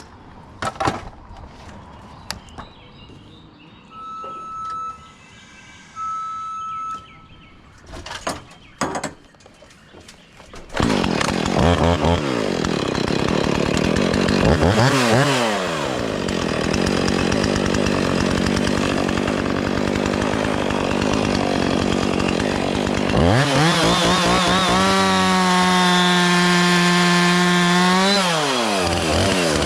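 Chainsaw cutting tree limbs. The first third is quieter, with a few knocks and two short beeps. Then the saw runs loud at high revs, its pitch dropping and climbing again several times as the throttle is eased and opened.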